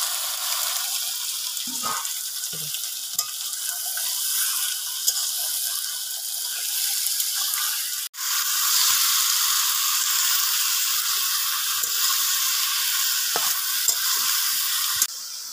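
Raw chicken pieces sizzling loudly in hot mustard oil with onions in a steel kadai, just after going into the pan. A steel spoon stirring them gives a few clinks and scrapes. The sizzle cuts out for an instant about eight seconds in.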